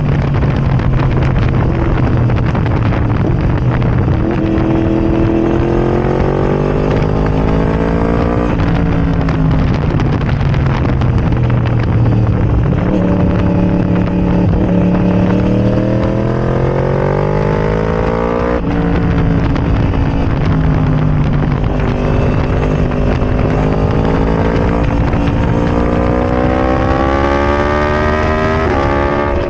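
Yamaha R1 crossplane inline-four through a decatted, baffle-less Arrow Racing exhaust, ridden hard. The engine pitch climbs in three long pulls and drops sharply at the breaks about eight and eighteen seconds in.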